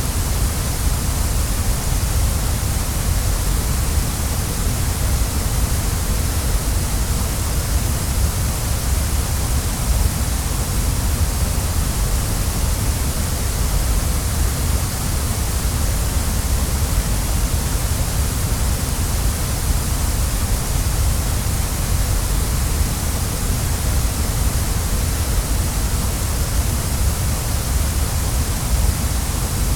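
Waterfall rushing steadily: an even, unbroken roar of falling water with a deep rumble underneath and a bright hiss on top.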